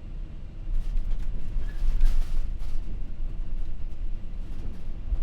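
MD-11F freighter touching down, heard inside the cockpit: a steady low rumble that rises sharply about a second in as the wheels meet the runway, with a few jolts and rattles during the rollout.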